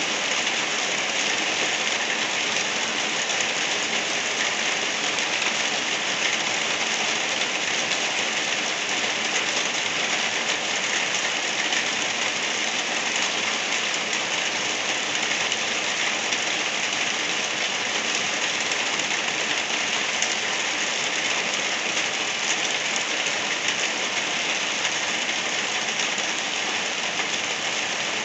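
Gentle rain falling steadily: an even, unbroken hiss, brightest in the upper range.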